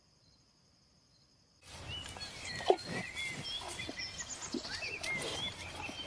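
A faint high steady buzz, then about a second and a half in, outdoor animal-pen sound cuts in: small birds chirping over a noisy background, with a few short low animal sounds and one sharp click.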